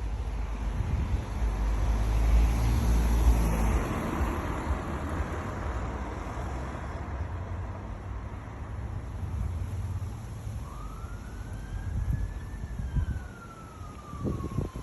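Roadside traffic: a vehicle passes close about two seconds in, and near the end a distant siren wails, one slow rise and fall in pitch.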